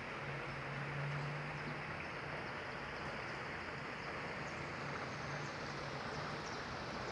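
Heavy rain falling in a steady downpour, an even hiss, with a low steady hum underneath that is strongest in the first second or two.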